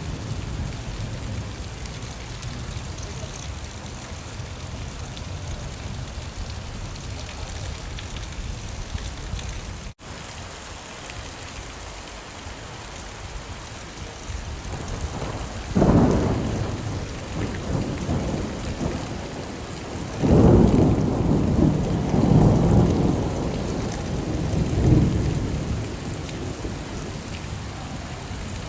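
Steady rain falling, with a rumble of thunder a little past halfway and a longer roll of thunder a few seconds later. The rain cuts out for an instant about a third of the way in.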